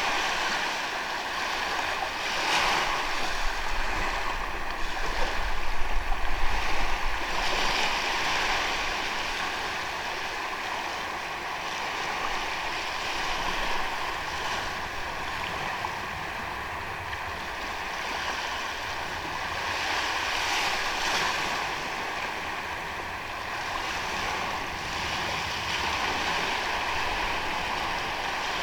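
Ocean waves breaking and washing up a beach, surging louder every few seconds and then easing back.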